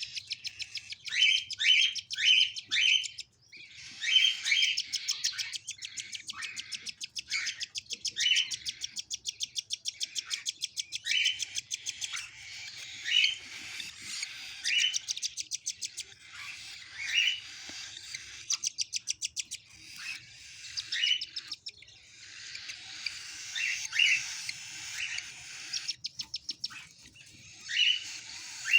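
Cockatiels calling: short rising chirps over and over, with long stretches of fast, even, buzzing pulses, the food-begging of a cockatiel chick being fed by its mother.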